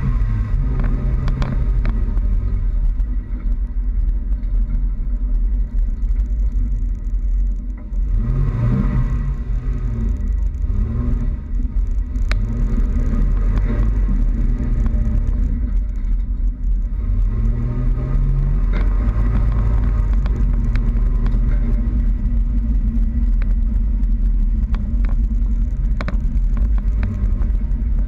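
Toyota Tacoma pickup driving, with a heavy steady low rumble of the drive under the engine note. The engine's pitch climbs and drops back several times as it speeds up and eases off.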